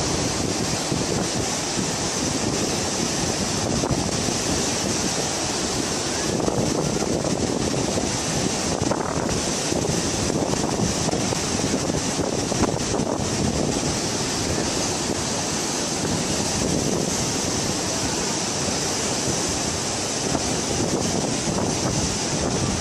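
Floodwater rushing in a steady, unbroken torrent, with wind buffeting the microphone.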